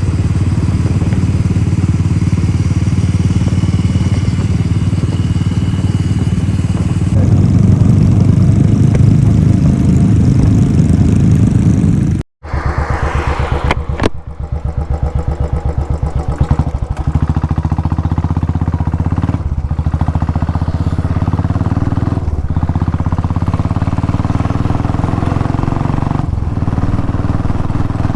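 Motorcycle engine running at speed while riding, heard with road and wind noise. It is louder for a few seconds, cuts out abruptly about twelve seconds in, then carries on steadily.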